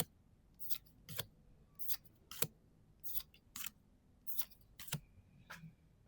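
Trading cards being slid off one another by hand, a run of about eleven short, crisp swishes, roughly two a second.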